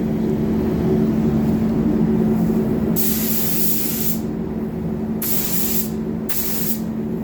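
Paint spray gun hissing in three short passes, starting about three seconds in, as coats go onto a car bumper. Under it runs the steady hum of the spray booth's air system.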